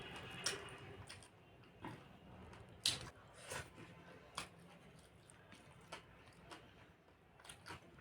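A person chewing food with wet mouth sounds: irregular sharp smacks and clicks, about nine in all, the loudest about three seconds in.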